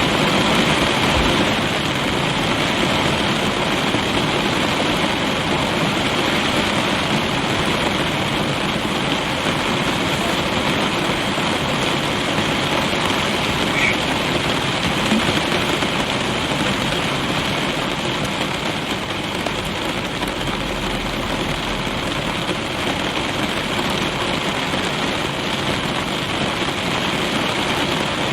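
Rain falling on a car's roof and windows, heard from inside the cabin: a steady, even hiss that holds without a break.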